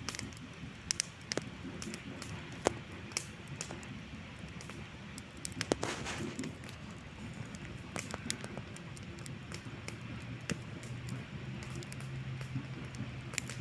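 Wood campfire crackling, with irregular sharp pops and snaps over a low steady rush. A steady low hum joins in about ten seconds in.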